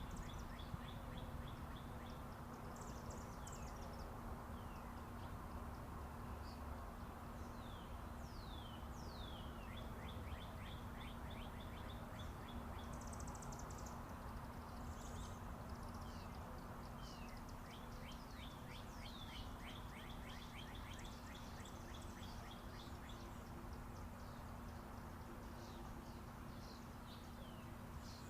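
Several birds chirping and trilling, many short, quickly falling chirps and rapid repeated notes, over the steady low rumble of interstate highway traffic in the background.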